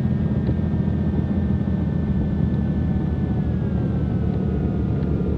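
Steady drone of a Cessna 310Q's two six-cylinder piston engines and propellers, heard from inside the cabin just after touchdown. A faint whine drifts slowly lower in pitch about three seconds in.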